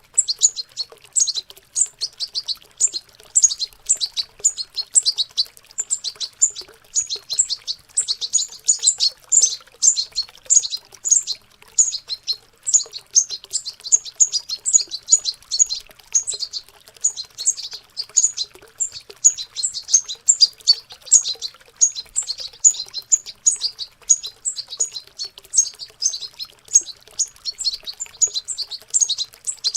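Young European goldfinches babbling their juvenile subsong, the practice singing of birds still learning their song: a continuous stream of rapid, high chirps and twitters.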